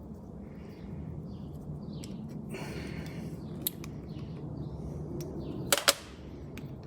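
Light metallic clicks and taps of small oil-pump parts being handled on the bench, with two sharp clicks near the end the loudest, over a steady low hum and faint bird chirps.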